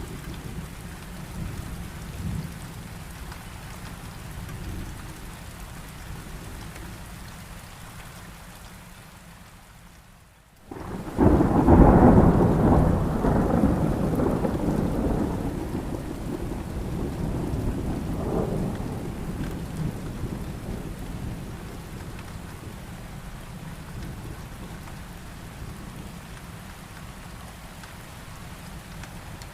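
Steady heavy rain, with a sudden loud thunderclap about eleven seconds in that rumbles on and slowly fades over several seconds, swelling once more a few seconds later. Just before the clap the sound drops briefly almost to silence.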